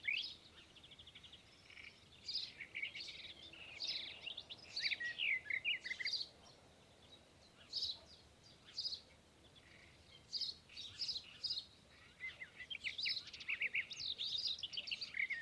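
Birds chirping and twittering: many quick, high chirps and short trills coming in bunches, with quieter stretches in between.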